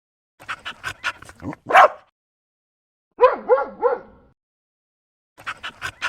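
A dog barking and yipping in short bursts: a run of quick, sharp yaps ending in a louder bark, a pause, then three quick yips, then the yaps begin again.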